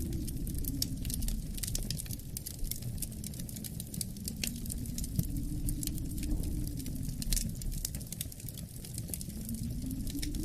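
Wood fire crackling with frequent sharp pops and snaps, over a low wind that swells and eases in slow gusts.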